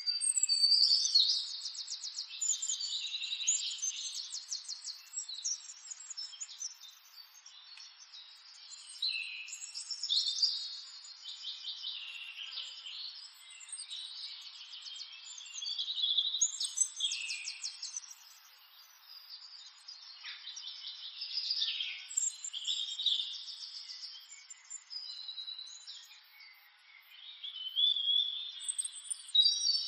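Small birds chirping and singing in short, high trilled phrases that come every few seconds.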